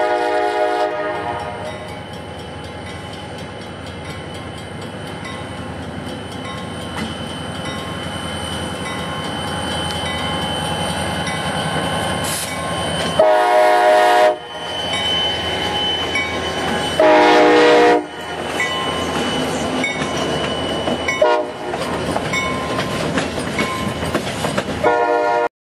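CSX diesel freight locomotive's air horn sounding, then the steady rumble of the passing locomotive and freight cars on the rails. The horn sounds again about halfway through, a few seconds later, and briefly near the end, each blast about a second long.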